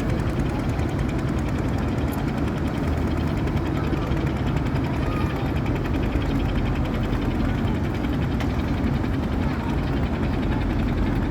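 Boat engine running steadily, a low, even drone that doesn't change.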